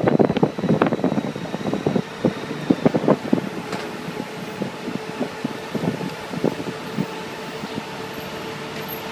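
Motorcycle running with a steady hum, under irregular wind buffets on the microphone that come thick over the first three seconds and thin out after.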